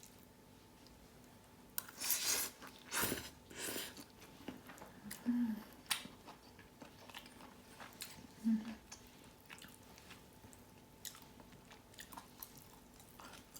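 A person eating, chewing and biting food with crunchy, irregular mouth noises that start about two seconds in.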